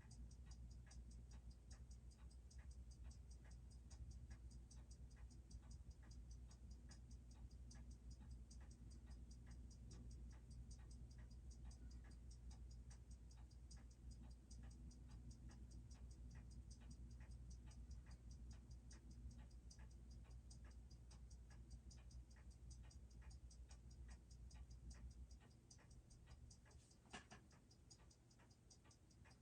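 Seiko 6R15 automatic watch movement ticking steadily at its rapid beat of six ticks a second, faint, with a low hum under it that stops about 25 seconds in.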